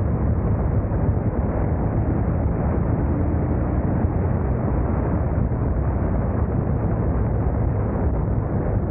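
Motorcycle riding at a steady speed: a steady rush of wind noise on the camera microphone mixed with the engine and road noise, with no change in pace.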